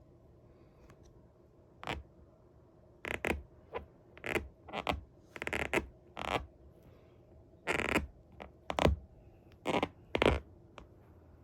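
A string of short scraping and creaking rubs, about a dozen over eight seconds and unevenly spaced, as worn Sperry leather boat shoes are handled.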